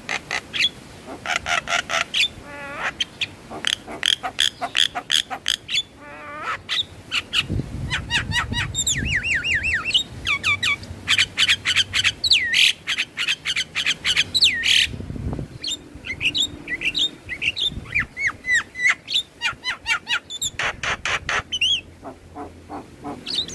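Javan myna song: fast runs of dry clicking notes mixed with whistled notes that slide up and down, and a few short warbled trills.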